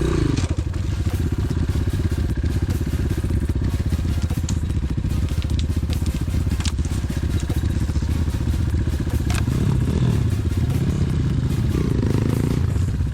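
Enduro pit bike engine running under load on a forest trail, its note rising and falling near the end, with a few sharp cracks of twigs and branches snapping against the bike.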